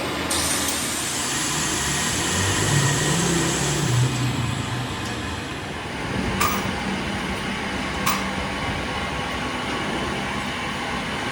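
Lathe running while cutting an inside pass on a tractor axle part: a steady machine noise with a hiss that starts just after the beginning and fades around the middle. Two sharp clicks come about six and a half and eight seconds in.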